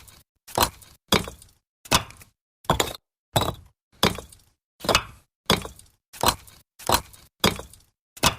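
Bricks being stacked, each set down on another with a hard clack. About a dozen separate strikes land at an even pace, roughly one every two-thirds of a second, each dying away quickly.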